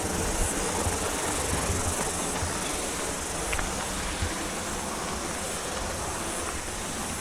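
Cicadas singing in a dense, unbroken chorus: a steady high-pitched hiss, with some low rumble underneath.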